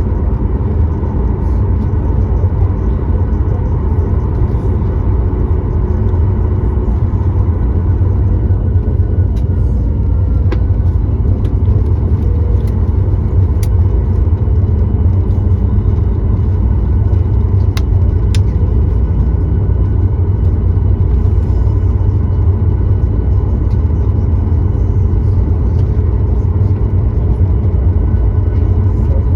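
Steady low rumble of a Boeing 737-9 MAX's CFM LEAP-1B engines and airflow, heard from inside the passenger cabin, with faint steady tones above it. A few faint sharp clicks come through about ten, thirteen and eighteen seconds in.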